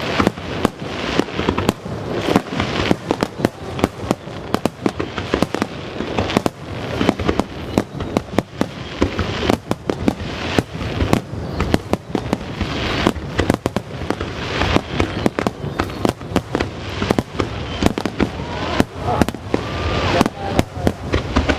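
Aerial fireworks show: a rapid, irregular barrage of shell bursts and launch booms, several each second, over a continuous crackling rumble and the echo of earlier bursts.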